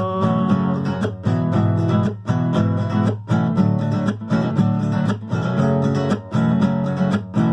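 Acoustic guitar strummed in a steady rhythm, an instrumental passage of the song with no singing.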